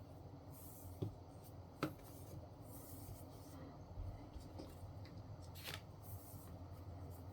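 Faint handling sounds at a workbench: two light taps about one and two seconds in, and a few short soft rustles or snips, as of fabric strips being cut and handled.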